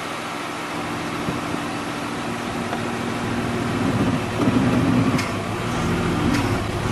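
BMW E36 engine idling steadily, with a louder, wavering patch about four to five seconds in and a couple of faint clicks near the end.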